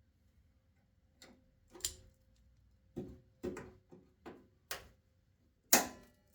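A series of about eight sharp metal knocks and taps at uneven spacing, some with a short ringing, the loudest one near the end: hand-tool work on the car's steel sill panel.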